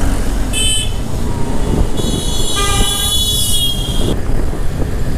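Vehicle horns in road traffic, heard over a steady rumble of engine and wind from a moving scooter: a short beep about half a second in, then a longer honk of about two seconds starting two seconds in, briefly overlapped by a second, lower horn.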